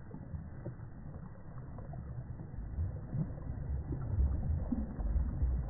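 Low, muffled outdoor rumble, uneven and growing louder, typical of wind buffeting the microphone at a riverside, with a few faint knocks.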